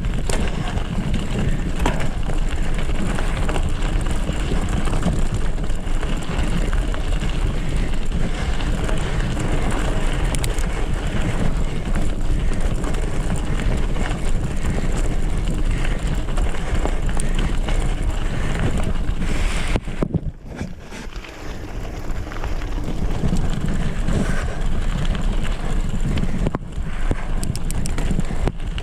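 Wind buffeting the microphone over the rattle and tyre noise of a mountain bike on a rough trail, with a brief quieter moment about two-thirds of the way through.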